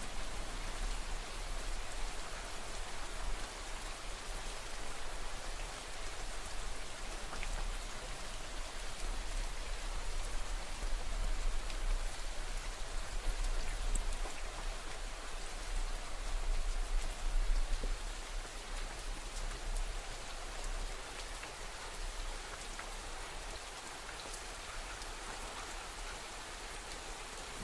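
Steady heavy rain falling and pattering on surfaces, with a deep low rumble underneath. It swells a little in the middle, then eases slightly.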